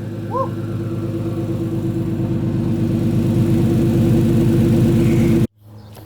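Toyota 1JZ-GTE twin-turbo straight-six engine running steadily at an even speed, growing slowly louder, then cutting off abruptly about five and a half seconds in.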